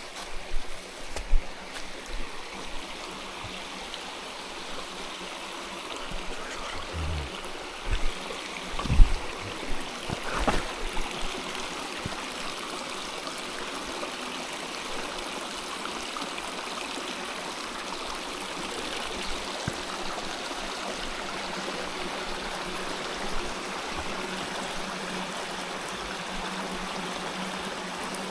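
Water flowing steadily, as of a small stream, with a few thumps in the first ten seconds or so.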